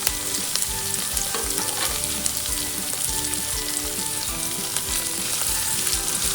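Sliced onions frying in hot coconut oil in an uruli, a steady sizzle, as a spoon stirs them with a few light scrapes against the pot.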